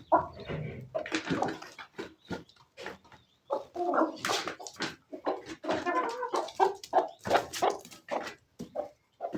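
A flock of chickens clucking and squawking excitedly at feeding time: many short, overlapping calls, one after another without a break.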